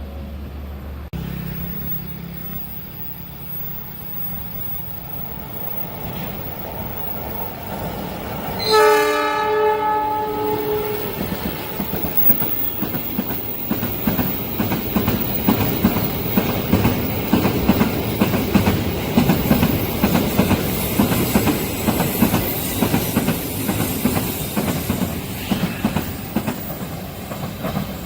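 A train approaching and sounding its horn, one blast of about two seconds roughly a third of the way in, then passing close with a dense, growing clickety-clack of wheels over the rail joints.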